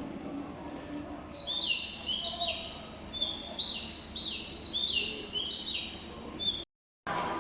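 Bird chirping: a quick, repeated series of high chirps that starts about a second in and cuts off abruptly near the end, over a faint low hum of station ambience.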